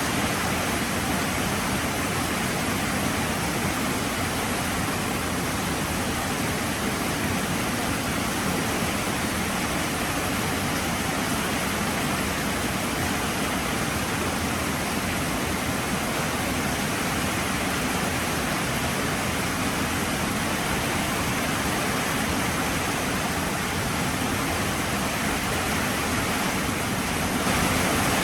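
Heavy rain falling steadily as a dense, even hiss, a little louder near the end.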